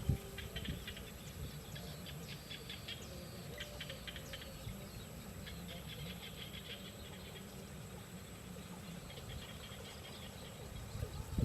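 Small birds at a nest chirping in rapid bursts of short, high calls, over a low rumble, with a brief knock at the very start.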